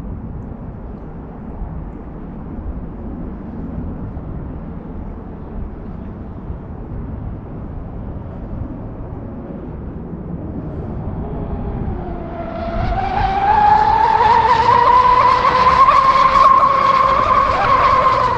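RC catamaran boat's electric motors whining as it runs on 6S power. The whine grows loud about two-thirds of the way in, dips and then climbs steadily in pitch as the boat speeds up; before that only a low background hiss.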